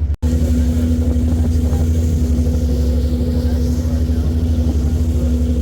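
Boat engine running steadily: a loud, low rumble with a constant hum above it, cut off for a split second just after the start.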